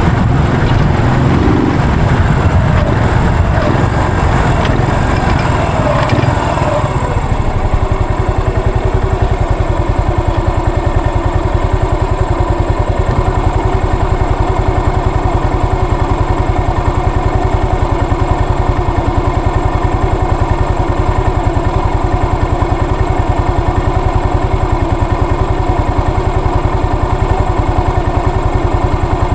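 Yamaha SR400's air-cooled single-cylinder four-stroke engine dropping in pitch as the bike slows over the first several seconds. It then settles into a steady idle with an even, regular beat.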